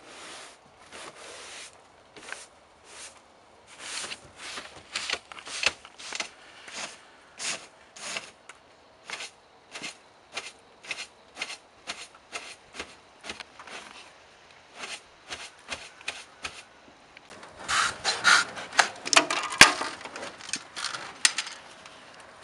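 A hand tool worked in steady short scraping strokes, about two to three a second. A louder, faster run of strokes comes near the end.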